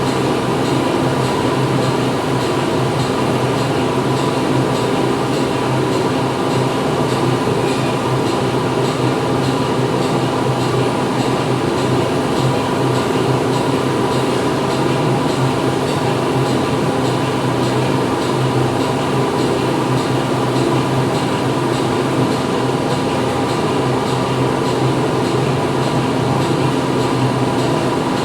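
Factory interior ambience: machinery running with a steady loud hum and drone, overlaid by a faint, fast, even mechanical ticking.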